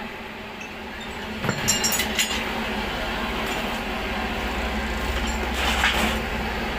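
Metal tools clinking and knocking in a workshop over a steady low machine hum, with a few sharp clinks about a second and a half in and another group near the end.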